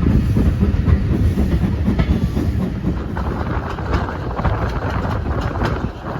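Railway carriage running along the line: a steady rumble of wheels on rails, with a few sharp clicks as the wheels cross rail joints.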